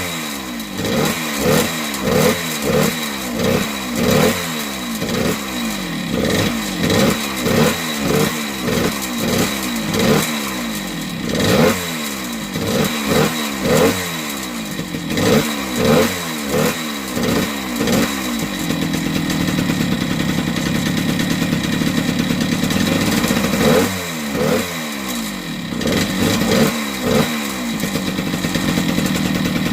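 1978 Yamaha DT100's small air-cooled two-stroke single being revved over and over, its pitch rising and falling about once or twice a second. About two-thirds of the way in it settles to a steady run, then a few more blips come near the end. It is running without choke to put some wear on a freshly refitted piston.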